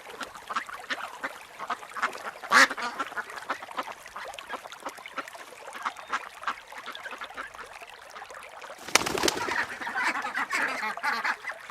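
A group of ducks quacking on the water, many short calls throughout, with a louder burst of rushing noise about nine seconds in and busier calling after it.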